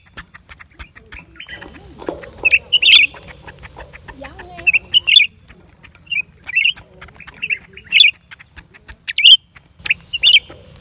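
Blue-winged leafbird calling: short, sharp high notes, singly or in quick clusters of two or three, repeated about once a second.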